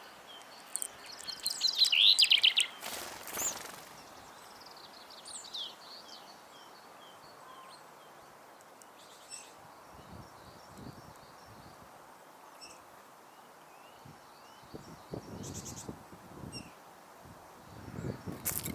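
Small garden songbirds singing and chirping, loudest in a burst of quick high notes about two seconds in, followed by scattered short chirps. A sharp knock comes just after the burst and another near the end.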